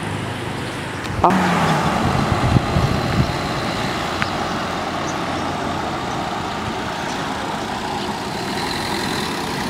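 Sacks of food being loaded onto a truck: a sharp knock about a second in, then a few dull thumps, over a steady outdoor noise.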